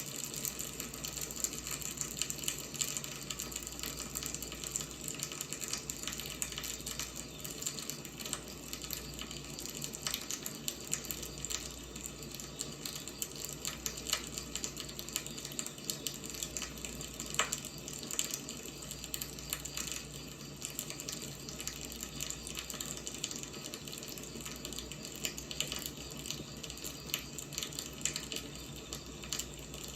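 Firewood burning, crackling steadily with many small pops and one sharper snap a little past halfway.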